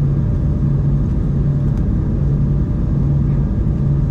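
Steady cabin noise of an Embraer 190-E2 airliner: a low rumble from its engines and air systems, with a deep hum that swells and fades about once a second.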